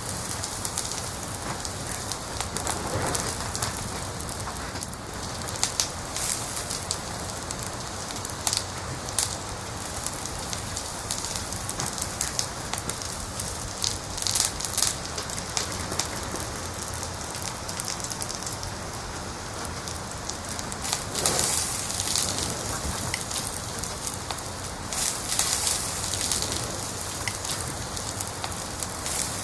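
Wood fire crackling in a fireplace: a steady hiss with frequent sharp pops and snaps, and a few louder flurries of crackling scattered through.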